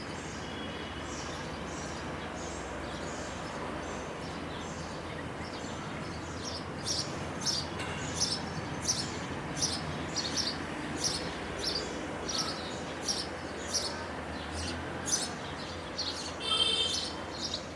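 House sparrows chirping: short, repeated chirps that get louder about a third of the way in and run at about two a second, with a quick cluster of chirps near the end, over a steady background hiss.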